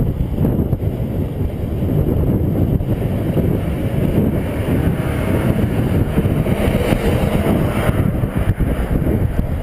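Wind buffeting the microphone of a camera carried on a moving bicycle at riding speed: a steady, dense, low rush of wind noise.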